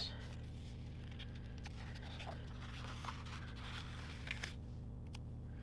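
Faint rustling and handling of paper sticker sheets, with a few small ticks, over a steady low hum.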